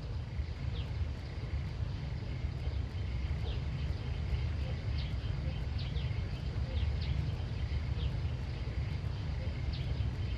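Outdoor nature ambience: a steady low rumble with short, high chirps repeating about every half second to a second over a faint steady high tone.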